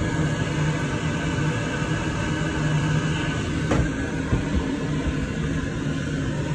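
Southeastern Class 395 electric train running, a steady hum and rumble heard from inside its toilet cubicle. A single sharp click comes a little under four seconds in.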